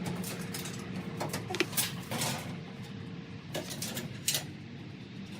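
Scattered clicks, knocks and clinks of hard parts and tools being handled during dryer repair work, over a steady low hum.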